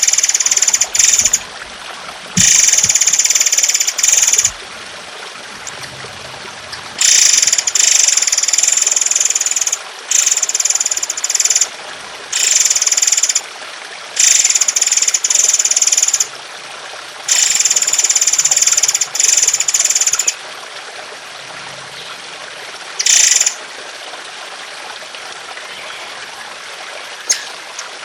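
A songbird repeating long, harsh bursts of song, about eight of them, each one to three seconds, over steady trickling water.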